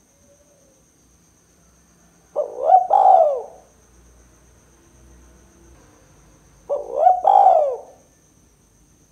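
Spotted dove (tekukur) cooing: two calls about four seconds apart, each a few short notes followed by a longer coo that rises and then falls.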